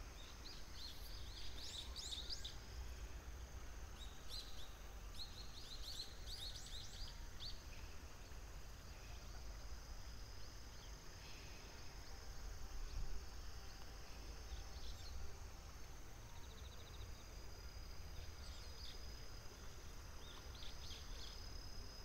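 Stonechat singing in short high phrases, two bursts in the first seven seconds, then fainter, sparser notes later, over a low steady rumble.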